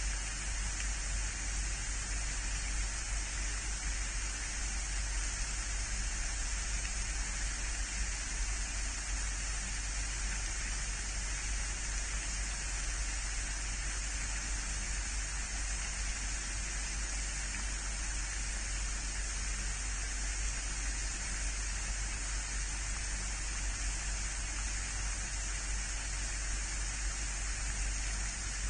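Steady, even hiss of outdoor noise with a low rumble underneath, unchanging throughout, with no distinct calls or splashes standing out.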